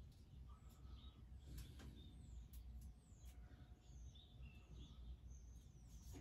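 Near silence: faint bird chirps in the background, with a few faint clicks.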